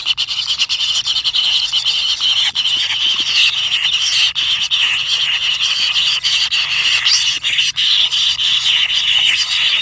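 A continuous, loud animal chorus of rasping, buzzing calls, steady throughout and peppered with small clicks.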